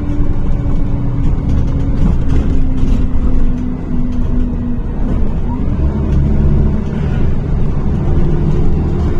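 NefAZ-5299 city bus running on the move, heard from inside the passenger cabin: a steady engine and drivetrain hum whose pitch dips about five seconds in and then settles at a new steady note.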